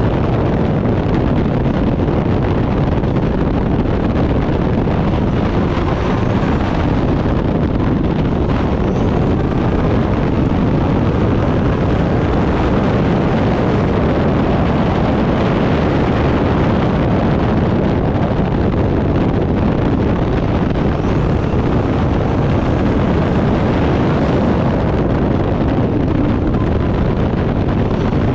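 Turbocharged Backdraft Cobra's engine running hard under racing load, a loud, steady, dense drone with no let-up.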